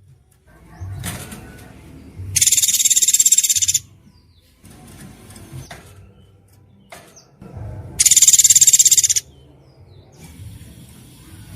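A songbird's very rapid, shrill trilled 'tembakan' phrase, sounded twice, each burst lasting about a second and a half.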